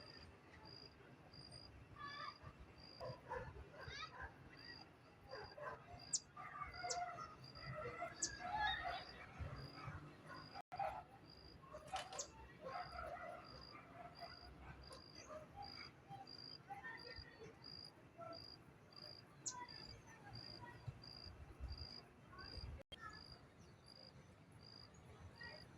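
A high-pitched insect chirp repeating steadily, about three chirps every two seconds, with faint scattered animal calls in the distance, most of them in the first half.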